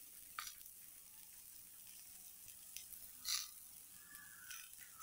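Faint sizzling of onions, ginger and spices frying in sesame oil in a kadai, with a light click about half a second in and a short scrape a little past three seconds.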